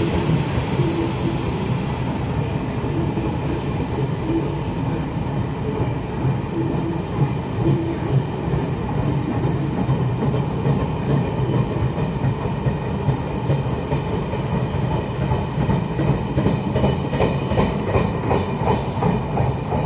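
A passenger train runs through an underground station without stopping, with a steady rumble of wheels and cars echoing off the platform walls. The wheel clatter over the rail joints grows plainer and more rhythmic near the end as the last cars go by.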